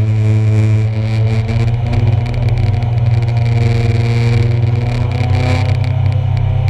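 Engines of several 1-litre stock cars racing, running hard at high revs with overlapping pitches that shift slowly as the cars change speed.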